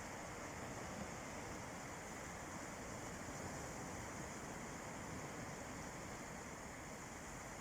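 Sea waves washing on a beach, an even, continuous rush of surf with no distinct breaks.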